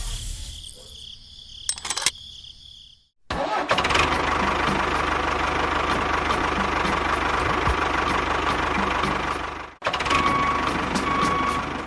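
A small engine or motor running steadily, with a faint regular ticking, starting abruptly about three seconds in and cutting off suddenly near ten seconds, then starting again briefly near the end.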